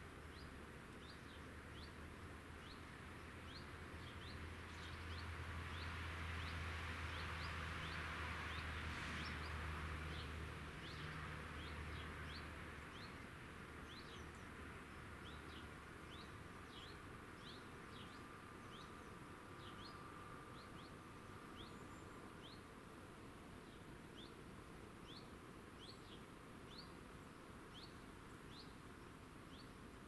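A bird repeats a short, high, rising call every half second to a second. A distant engine hums underneath, swelling to its loudest about eight seconds in and fading away by about thirteen seconds.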